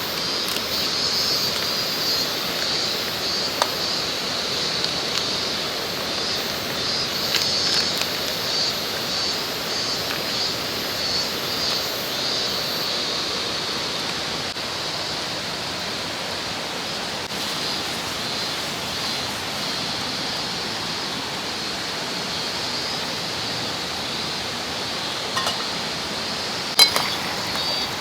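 Mountain stream running steadily, with a steady high buzz above it that pulses during the first half. A few sharp clinks near the end.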